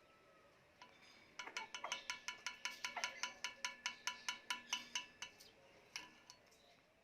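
A rapid, even run of bright bell-like ringing ticks, about six a second, lasting about four seconds and then stopping.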